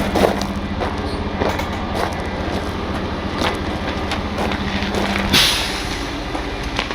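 Heavy diesel truck idling with a steady hum and a few knocks. About five seconds in, a tone in the hum cuts off and there is a short burst of air hissing.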